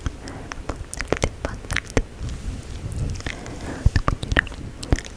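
Close-miked ASMR mouth sounds: a string of short wet clicks and smacks at irregular intervals, over a soft low rustle.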